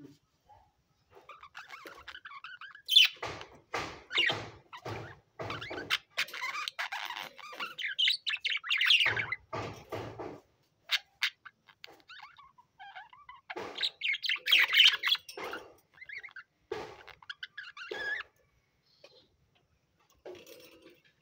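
Budgerigars chirping and chattering in bursts, with some dull knocks mixed in. The calls die down briefly about halfway through and again near the end.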